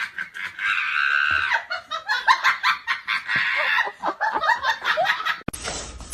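A person laughing hard in quick, high-pitched giggles. About five and a half seconds in, the laughter cuts off abruptly and a steady background noise takes over.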